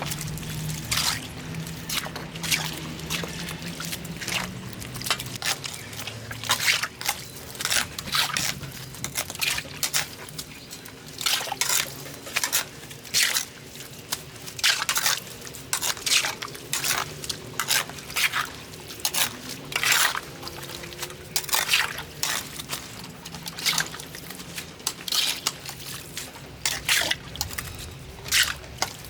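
Water splashing and sloshing in short, irregular swishes about a second apart, as during wet washing.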